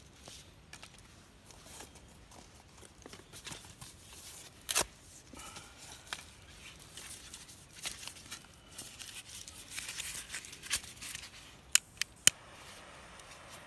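Small wood fire crackling, with scattered sharp snaps: a loud one about five seconds in and three quick pops near the end.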